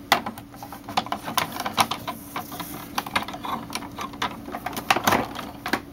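Plastic vacuum cleaner parts and attachments being handled and fitted, an irregular run of clicks and knocks.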